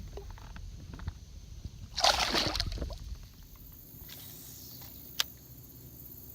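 Water splashing once beside a kayak for about a second, then a single sharp click a few seconds later.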